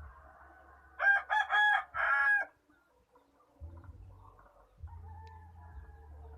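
A rooster crowing once, starting about a second in: a loud call of several broken notes lasting about a second and a half.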